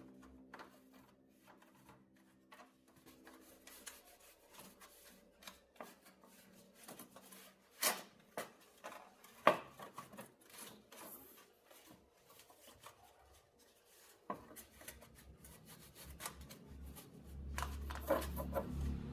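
Small tools and parts being handled on a workbench during an electronics repair: scattered light clicks, taps and scraping, with two sharper clicks about eight and nine and a half seconds in. A low hum comes in near the end.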